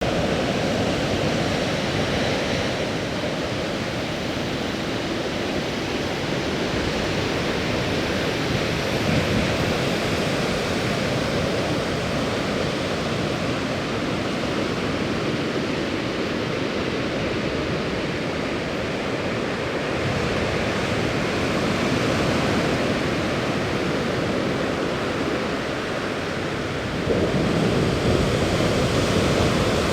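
Rough sea surf after a typhoon: a steady rush of waves breaking on the shore with wind on the microphone, swelling louder about 27 seconds in.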